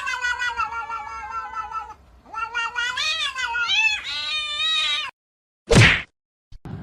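A cat meowing in two long, drawn-out calls, the second wavering up and down in pitch, followed by a short, loud burst of noise.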